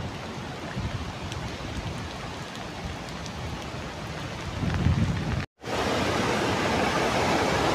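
Steady rain falling. About five and a half seconds in, the sound cuts out briefly, and then comes the louder, steady rush of a river in flood.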